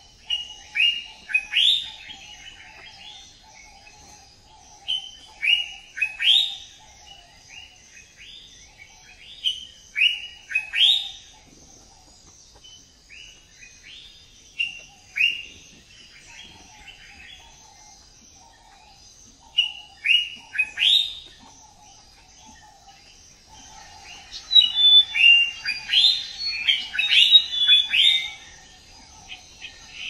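Birds singing: short phrases of quick falling whistled notes, repeated every few seconds, then a busier burst of chirping near the end. A faint steady high-pitched hum runs underneath.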